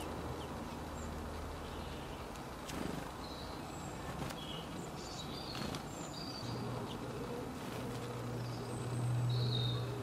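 Small garden birds giving short, high chirps now and then over a low steady hum that rises a little in pitch partway through and grows louder near the end.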